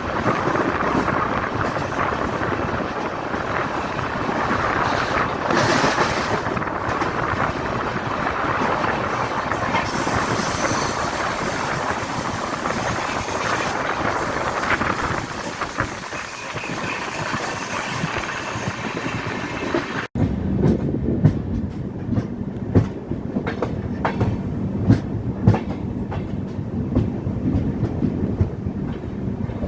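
Passenger train running on the rails: a dense rush of wheel and running noise, with a thin high squeal through the middle. After an abrupt cut about two-thirds of the way in, the wheels clack over rail joints in a regular rhythm over a steady low hum.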